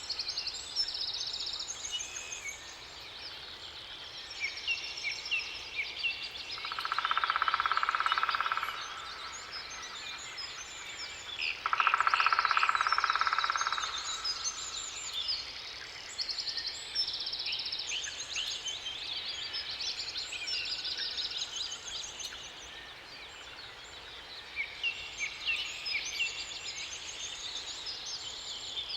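Several small songbirds singing and chirping together, with quick high trills and phrases overlapping throughout. Two louder, lower-pitched trilling calls of about two seconds each come about seven and twelve seconds in.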